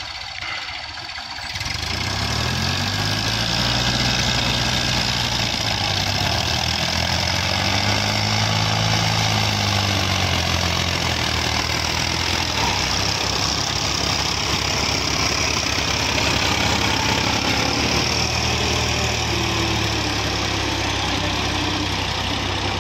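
Tractor diesel engine running. It comes in about two seconds in, its speed rises and falls a few times, then it holds a steady note.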